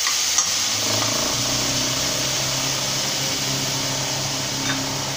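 Ginger-garlic paste sizzling and frying in hot oil in a kadai while being stirred. A steady low hum joins it about a second in.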